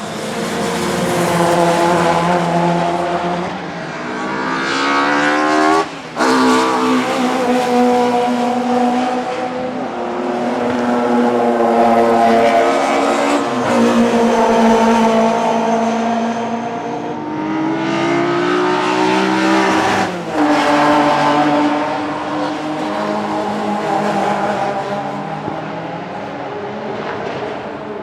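Several historic DTM touring cars racing past, their engines running hard and rising in pitch as they accelerate. There are sharp gear-change breaks about six seconds in and again around twenty seconds, and another car winds up near the end.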